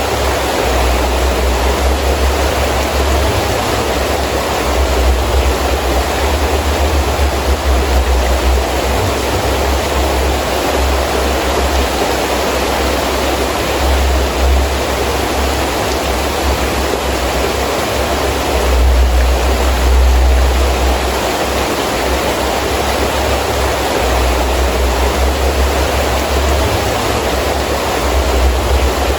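Heavy rain falling steadily, with gusting wind adding a deep rumble that rises and drops every few seconds and swells briefly about two-thirds of the way through.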